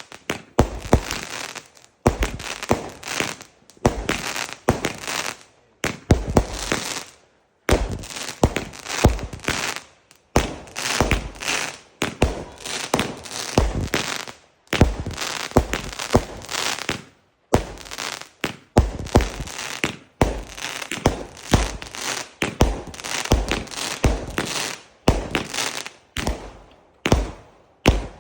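Fireworks going off in rapid succession: many sharp bangs a second in bursts, with brief pauses between volleys.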